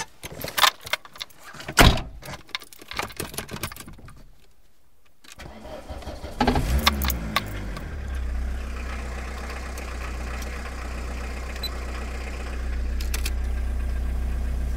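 A run of sharp clicks and knocks, then a car engine starting about six and a half seconds in and settling into a steady low idle that gets a little louder near the end.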